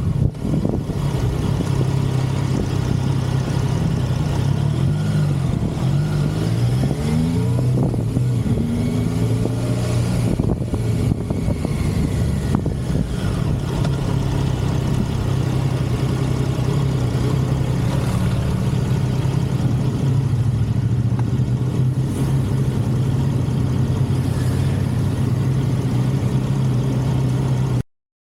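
Motorcycle engine running on the road with a steady rush of wind noise. Its note climbs and drops several times between about five and ten seconds in, then holds steady, and the sound cuts off suddenly near the end.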